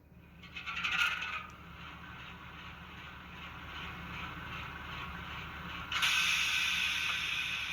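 Sound-fitted N gauge model Class 08 diesel shunter running, its decoder's engine sound through a tiny speaker mixed with the rattle of the model's mechanism. The sound swells about a second in, and after a cut about six seconds in it turns louder and brighter.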